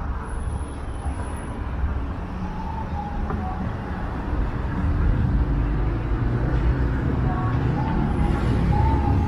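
Road traffic on a city street: a steady rumble of passing cars, growing louder about halfway through as vehicles pass close by.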